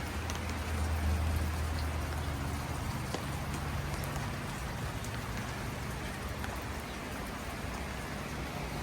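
Steady heavy rain falling on a garden, with scattered drops ticking. A low hum sits under the rain for the first two or three seconds, then fades.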